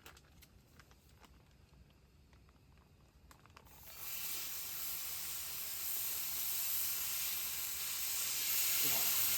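Pork belly sizzling in a hot pan: after a few quiet seconds with faint light clicks, a steady frying hiss starts about four seconds in and holds.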